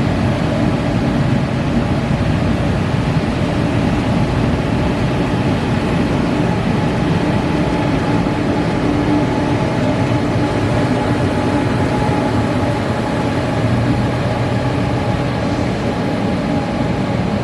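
Korail KTX high-speed train running, heard from inside the carriage: a steady, even rumble with a constant hum.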